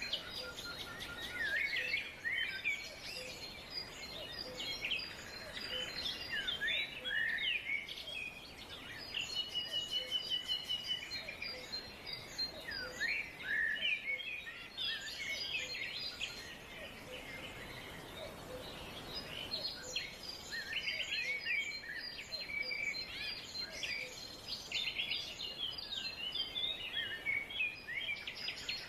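Several songbirds singing and chirping at once, overlapping whistles and trills with a rapid buzzy trill about ten seconds in, over a soft steady background hiss of the forest.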